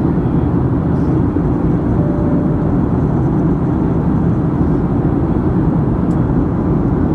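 Steady low rumble of a passenger plane in flight heard from inside the cabin: engine and airflow noise.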